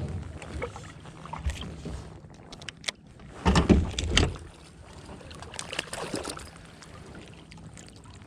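Handling knocks and thumps in a kayak while a hooked bass is brought in, with scattered clicks and a loud cluster of thumps about three and a half seconds in.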